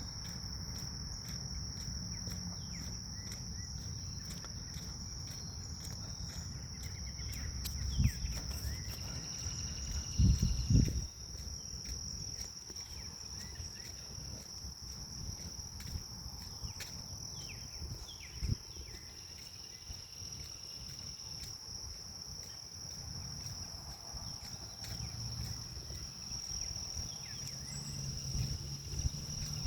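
Grass insects trilling in one unbroken high-pitched tone, over a low rumble of wind on the microphone. A few dull thumps stand out, the loudest a pair about ten seconds in.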